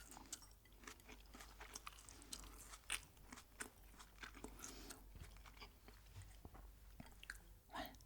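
Close-miked eating: a mouth chewing and crunching food, heard as irregular, soft, crisp crackles and clicks.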